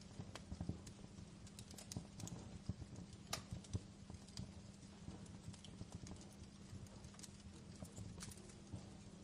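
Fireplace fire crackling: irregular snaps and pops, a few sharper ones standing out, over a soft low rumble.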